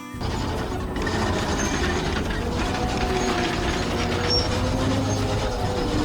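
Heavy construction machinery working: a steady mechanical rumble with rattling and a faint wavering whine.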